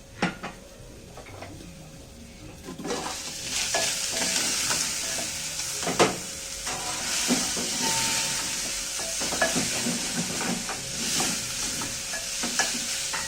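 Food frying in hot oil in a cooking pot, a steady sizzle that starts abruptly about three seconds in, while a spoon stirs and knocks against the pot. A few sharp clicks come before the sizzle begins.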